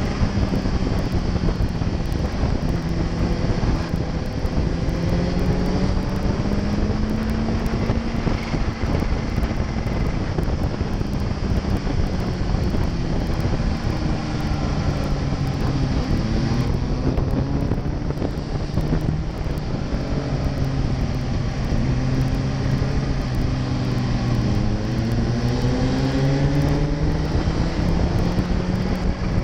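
Kawasaki Ninja H2's supercharged inline-four running at road speed, its pitch sagging and climbing again several times with the throttle, under wind noise on the helmet microphone.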